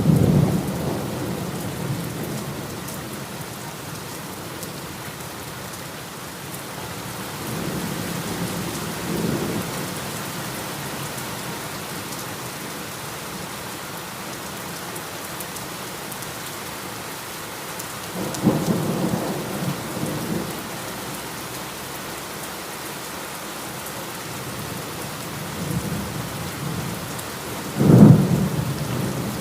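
Heavy rain falling steadily, with thunder rumbling in low swells several times. A sharper, louder thunderclap breaks near the end.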